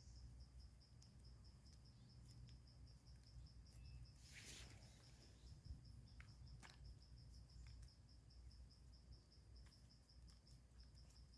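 Quiet garden ambience: a cricket chirping in a steady, rapid pulsed trill, with a brief rustle about halfway through and a few faint clicks.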